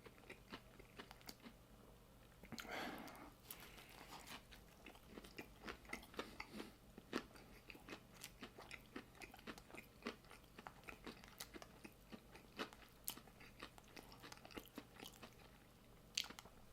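Close-up chewing of a crunchy barbecue chicken sandwich: a steady run of small, quiet, wet clicks and crunches, with one louder bite or crunch about three seconds in.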